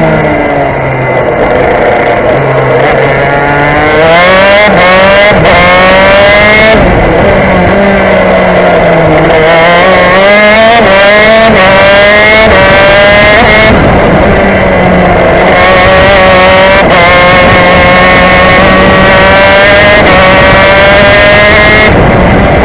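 KZ shifter kart's 125cc two-stroke engine run hard at racing pace: it revs up in long rising sweeps, with the pitch dropping suddenly between them as it changes gear or lifts for corners, then holds high and steady for several seconds near the end.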